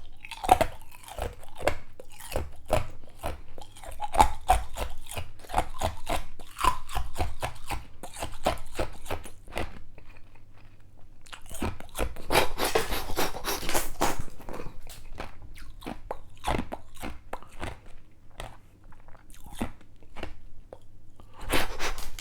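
Ice cubes crunched and chewed in the mouth: a run of quick, sharp crunches, a louder, denser bout of crunching about halfway through, then sparser chewing and a last loud crunch near the end.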